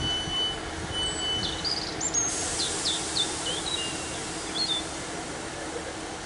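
Class 150 diesel multiple unit drawing slowly into the platform, its engine a steady drone, with a high hiss that comes in sharply about two seconds in. An electronic beep repeats over the first second and a half, and small birds chirp.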